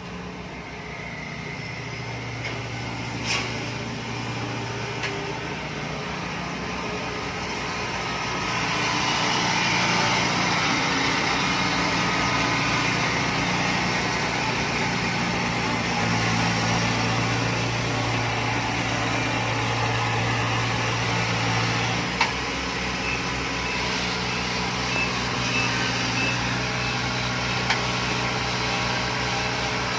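An engine running steadily with a low hum, getting louder about eight seconds in, with a few short knocks.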